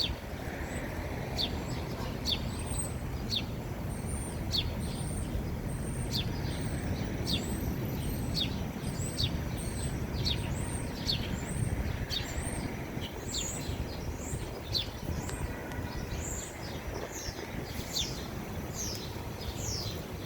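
American robin calling: a long series of sharp, high chirps, each dropping steeply in pitch, about one or two a second, over a steady low background rumble.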